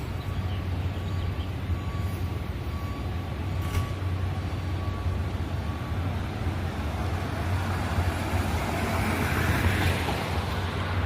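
Light rail train running, a steady low rumble with a faint steady whine in the first half and rising wheel and rail noise about eight seconds in.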